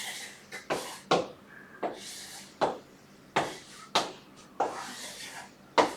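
Short scratching strokes of a pen drawing a diagram, about one or two strokes a second, a few with a faint squeak.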